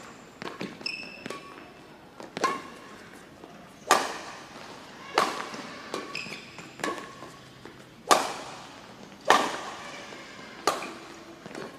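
Badminton rally: rackets striking a shuttlecock about once every second and a half, each hit sharp and echoing in a sports hall, with short squeaks between the hits.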